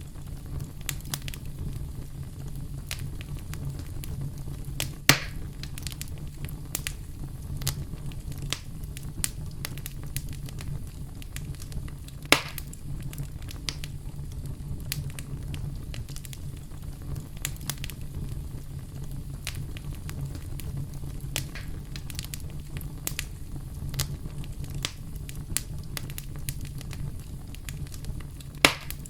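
Wood campfire crackling, with many small irregular snaps over a steady low rumble and three louder pops, about 5 and 12 seconds in and near the end.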